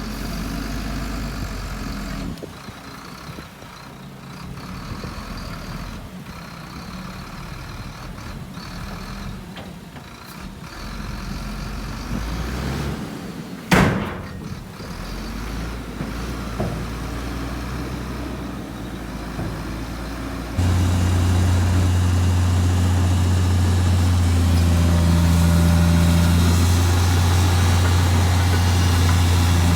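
Heavy diesel engines of dump trucks and a bulldozer running at a landfill, with one sharp burst of noise about halfway through. About two-thirds of the way in, a much louder, steady engine drone comes in abruptly.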